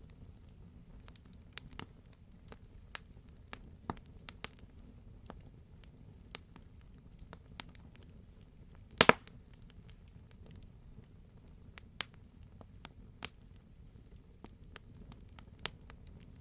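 Campfire burning: scattered sharp snaps and crackles of burning wood, with one loud pop about nine seconds in, over a low steady rumble of the flames.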